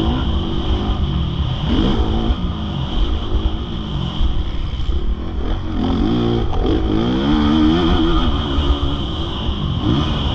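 Motocross bike engine revving hard and easing off again and again, its pitch climbing and dropping with each opening and closing of the throttle over a low rumble.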